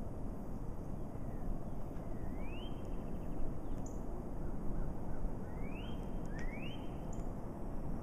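A bird gives a rising whistle that levels off at the top, once about two seconds in and twice in quick succession about six seconds in, over a steady low outdoor background rumble.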